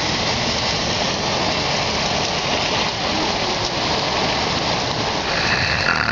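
Heavy rain falling steadily and hitting surfaces, an even rushing noise with no let-up.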